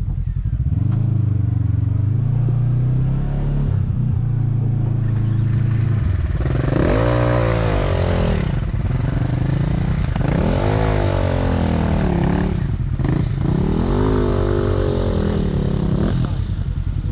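Four-stroke single-cylinder dirt bike engine, a KTM 450 SX-F, running at a steady low speed for several seconds and then revved up and down three times.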